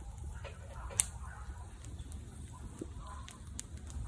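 A bonfire of burning furniture crackling, with a few sharp pops, the loudest about a second in, over a steady low rumble.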